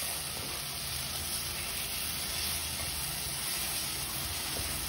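Thick ground onion-and-coconut masala paste frying and sizzling steadily in a nonstick kadhai as it is stirred with a wooden spatula. The paste is fully roasted and has come away from the sides of the pan.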